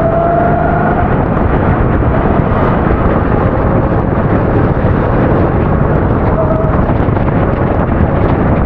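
270cc kart engine running under load, its pitch rising briefly in the first second, buried in heavy wind noise on the microphone.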